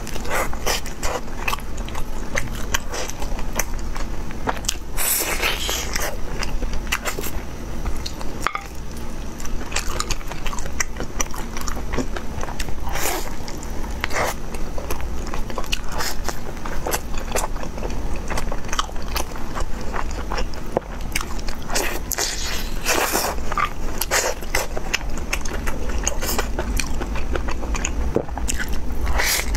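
A person eating close to the microphone: steady chewing and biting, with many small wet mouth clicks and short smacks.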